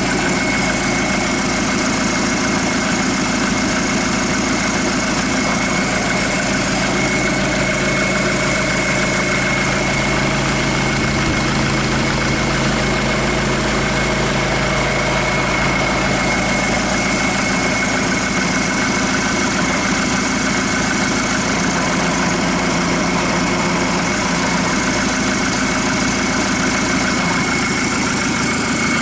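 Hyundai/Kia D4CB 2.5-litre four-cylinder common-rail diesel idling steadily during an oil pressure check, with a steady high-pitched whine over the engine note.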